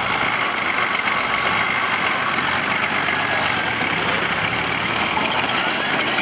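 Engine of a modified off-road trial 4x4 running steadily as it climbs a steep dirt slope.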